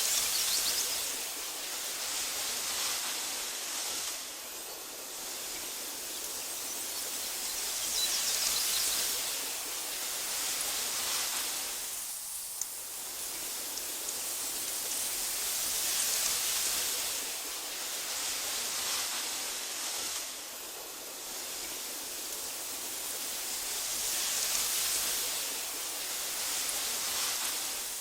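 Breeze rustling through tall meadow grass, a steady hiss that swells in soft gusts about every eight seconds and eases between them.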